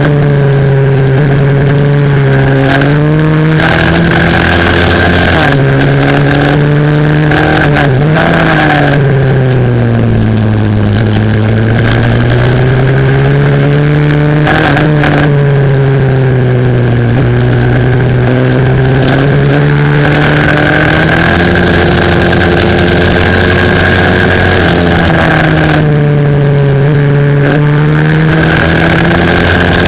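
Single-cylinder 140cc pit bike engine at race pace, its pitch climbing under throttle and stepping down sharply several times at gear changes and braking.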